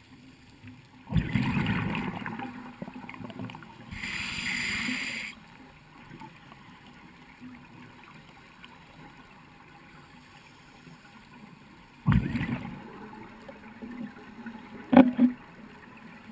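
Scuba diver breathing underwater through a regulator: a rush of exhaled bubbles about a second in, a hiss of inhalation around four seconds, then another burst of bubbles near the end, with a sharp click shortly after.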